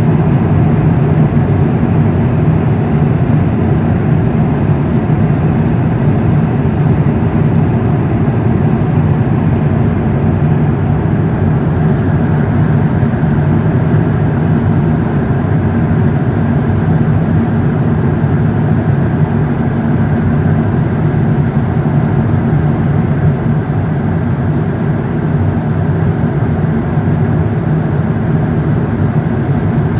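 Airbus A350 with its Rolls-Royce Trent XWB jet engines running, a loud, steady drone that eases slightly in the last few seconds.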